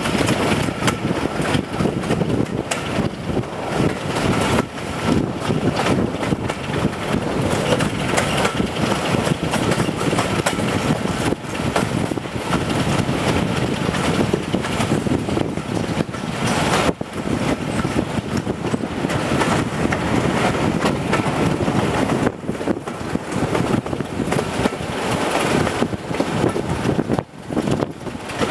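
A diesel-hauled train running along, heard from an open carriage window: a steady rush of wheel and rail noise with wind buffeting the microphone. The Class 26 locomotive's Sulzer six-cylinder diesel engine works at the head of the train.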